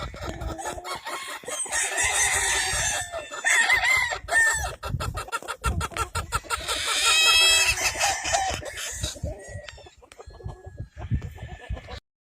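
Gamefowl roosters crowing and clucking, several calls overlapping; the loudest crow comes about seven seconds in. The sound cuts off suddenly near the end.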